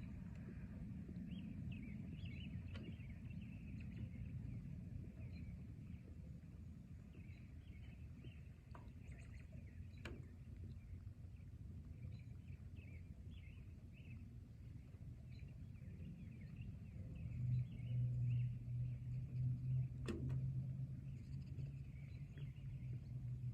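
Forest ambience: small birds chirping over and over above a steady low rumble, with a couple of sharp clicks. About two-thirds of the way in a steady low hum comes in and becomes the loudest sound.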